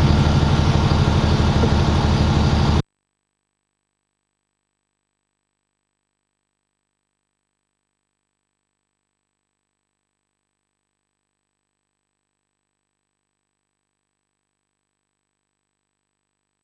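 An engine running steadily with a low, even beat, which cuts off abruptly about three seconds in and is followed by complete silence.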